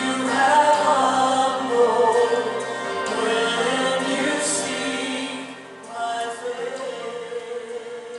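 Church music: a group of voices singing with accompaniment. The singing thins out about five and a half seconds in, leaving one held note that fades.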